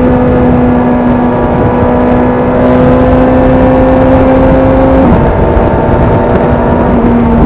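Honda CB1000R's inline-four engine running at steady revs under way, over a dense low rumble. Its pitch eases down slightly about five seconds in and again near the end.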